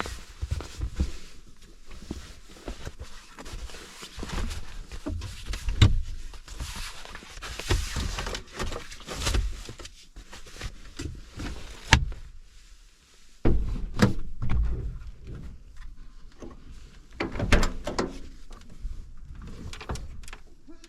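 Irregular thumps, knocks and rustling, with one sharp click about twelve seconds in and a brief lull just after.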